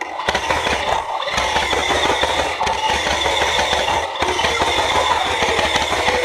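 Loud, continuous rapid mechanical clattering, a dense stream of clicks with no let-up.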